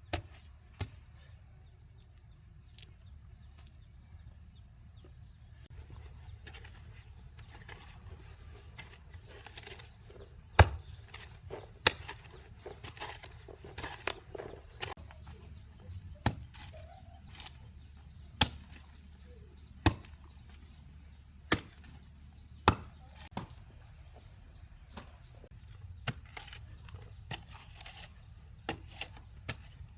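Irregular sharp knocks or blows, one every second or two, the loudest about ten seconds in, over a steady high insect drone.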